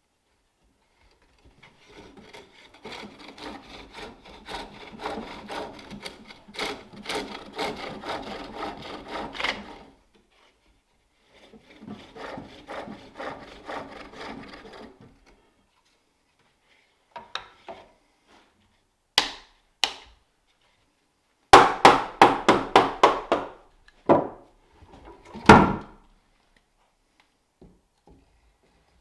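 A tool cutting green wood in two runs of rhythmic rasping strokes, followed by a series of sharp knocks and chops on wood that are the loudest sounds.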